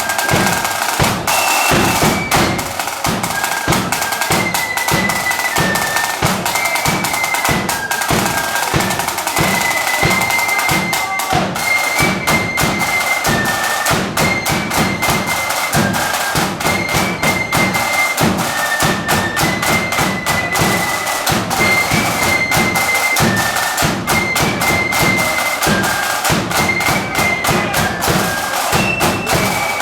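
Marching flute band playing a tune: a high flute melody stepping from note to note over steady, regular drum beats from bass and snare drums.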